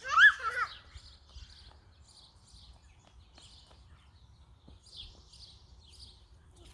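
Small birds chirping on and off, faintly. A short, loud, high-pitched cry with rising and falling pitch comes right at the start.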